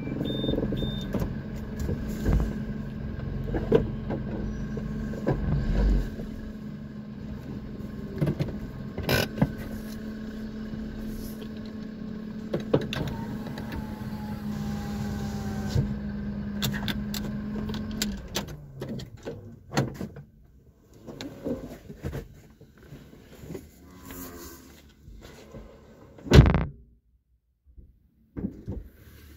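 Car engine idling, heard from inside the cabin as a steady hum, which stops about eighteen seconds in; cattle lowing faintly in the shed. After the hum stops come scattered knocks and one loud knock near the end.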